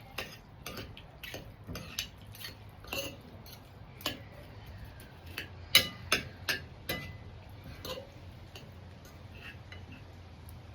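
Cutlery clinking and tapping against a bowl, in irregular light knocks with a few short ringing clinks, the loudest a little past the middle.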